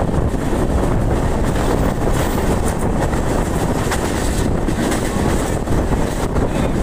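Passenger train running: a steady rumble of wheels on the track, with wind on the microphone.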